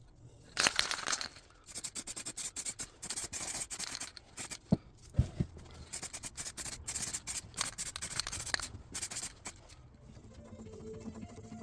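Rapid, irregular hand scraping and rubbing strokes, in quick runs, with a couple of brief squeaks around the middle. The strokes stop about ten seconds in, leaving a faint low hum.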